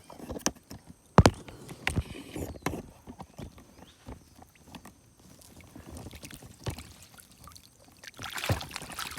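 Scattered sharp knocks and handling sounds over water noise, the loudest knock about a second in and a cluster near the end.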